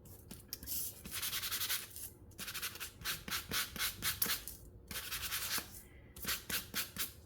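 Sanding block rubbed back and forth over embossed cardstock in quick scratchy strokes, in spurts with short pauses. The sanding wears away the coloured top layer on the raised embossed pattern to reveal the white core underneath.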